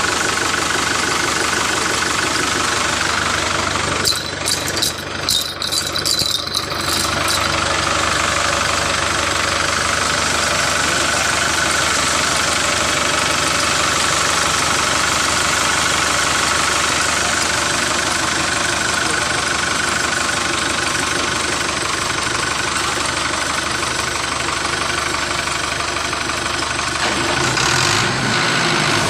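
An engine or motor running steadily, with a quick run of sharp clicks about four to seven seconds in and a change in its low note near the end.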